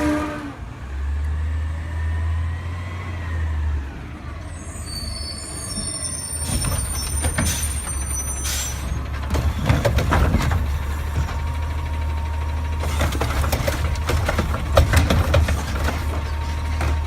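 Refuse truck's engine running steadily, with repeated metallic clanks and bangs through the second half. A high-pitched squeal comes in for a few seconds near the middle.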